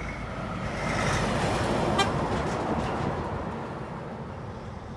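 A truck passing close by, its engine and tyre noise swelling about a second in and fading away, with a very short horn toot about two seconds in.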